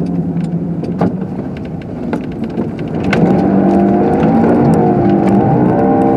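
Car engine heard from inside the cabin, running steadily and then revving harder from about three seconds in, its pitch rising and falling, with scattered sharp clicks over it.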